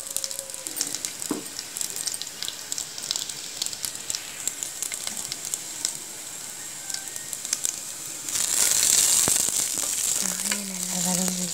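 Curry leaves, chopped onion and whole spices frying in hot oil in a pressure cooker, with a steady sizzle full of small crackles and pops. The sizzle grows louder about eight seconds in, as a wooden spatula stirs the pan near the end.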